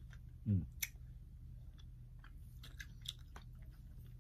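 Faint mouth sounds of chewing a soft, sticky tamarind paste candy (Pulparindo), with scattered small wet clicks. About half a second in comes a brief low 'mm' whose pitch falls, followed by a sharp click.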